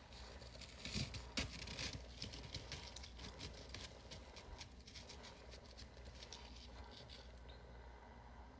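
Freezer frost being chewed: a rapid run of small icy crunches and crackles, loudest in the first couple of seconds and then thinning out.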